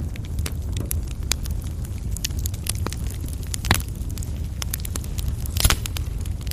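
Fire in a fireplace, burning coals crackling: a steady low rumble of flame with scattered sharp pops, two louder ones near the middle and toward the end.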